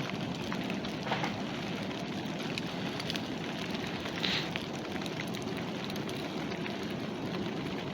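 Steady light rain falling, a continuous hiss with scattered drop ticks.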